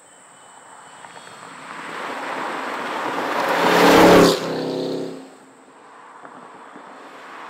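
2016 Chevrolet SS's 6.2-litre V8 running hard as the sedan approaches and passes close by. It grows louder to a peak about four seconds in, then fades quickly as it drives away.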